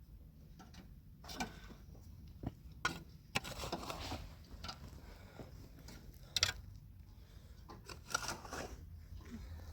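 Scattered light knocks, clicks and short scrapes of objects being handled, over a steady low rumble.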